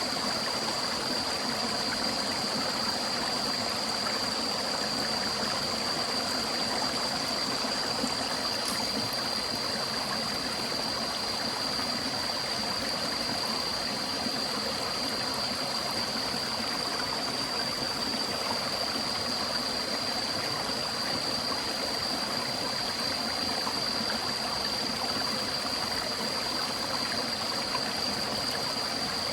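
Forest stream flowing steadily, a continuous rushing and trickling of water, with a steady high-pitched whine above it.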